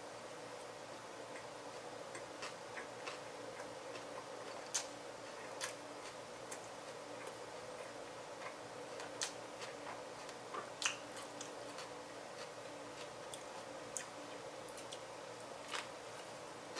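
A person chewing a sandwich: irregular wet clicks and smacks from the mouth, a few louder than the rest, over a steady background hum.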